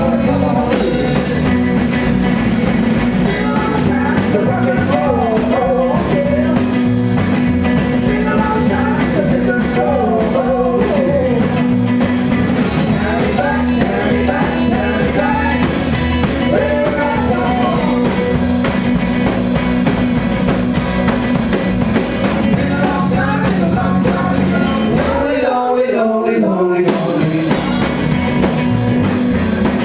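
Live rock and roll band playing, with drums, guitar, bass and a singer. About three-quarters of the way through, the bass and drums drop out for about a second before coming back in.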